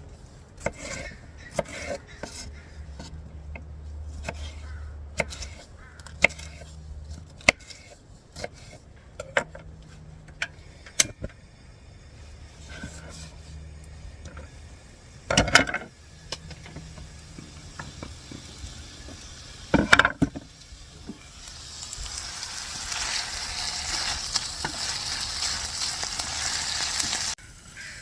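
Pork sausage bits frying in a pan on a small butane camp stove, sizzling while a utensil stirs and taps against the pan, with many sharp clicks and two louder clatters partway through. In the last few seconds a louder steady hiss builds up and then cuts off suddenly.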